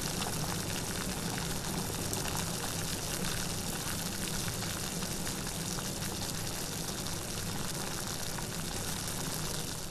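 Steady rain: an even hiss of falling water flecked with many small drop ticks.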